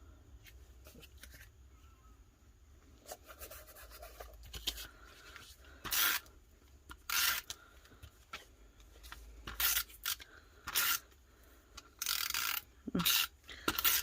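Paper pieces and ephemera being handled and laid down: a series of short paper rustles and crinkles, coming every second or so in the second half.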